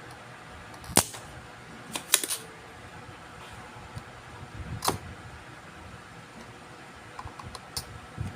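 A few sharp clicks and taps of tools and parts being handled on an electronics workbench: a loud one about a second in, a quick cluster a second later, another near five seconds, then lighter ticks near the end, over a steady fan hiss.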